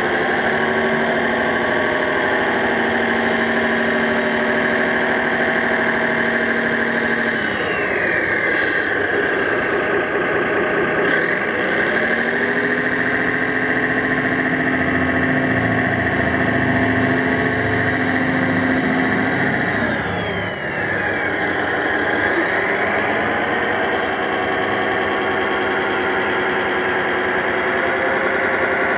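1/5-scale radio-controlled Ford 6610 tractor's motor running steadily, its pitch dropping and rising again twice, about a third of the way in and again past the middle.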